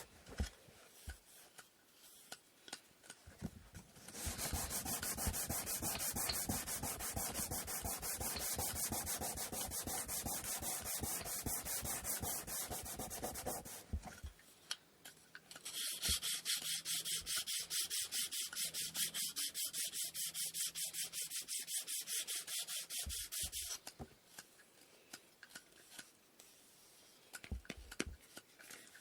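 Sandpaper rubbed back and forth by hand on wooden inkle loom parts in rapid strokes. There are two long spells of sanding, one starting about four seconds in and stopping about ten seconds later, and a second from about sixteen to twenty-four seconds. Quieter stretches with a few small handling clicks come before, between and after them.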